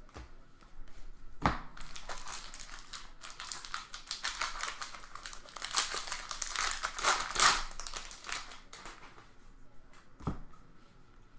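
Foil wrapper of a 2017 Bowman Draft jumbo card pack being torn open and crinkled, loudest in the middle, with a sharp knock just before it starts and another near the end.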